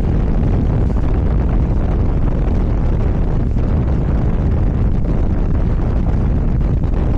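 Motorcycle on the move: a steady, loud rush of wind buffeting the microphone over the engine and road noise.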